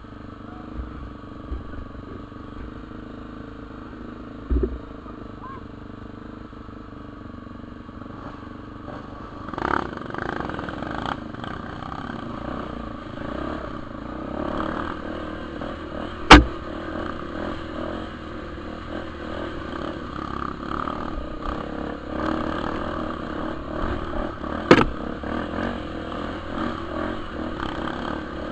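Dirt bike engine running, louder from about a third of the way in, with three sharp knocks; the loudest comes about halfway.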